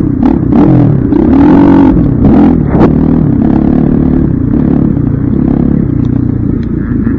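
Dirt bike engine revving up and down through the throttle in the first few seconds, with a few sharp clacks, then running at a steadier pitch.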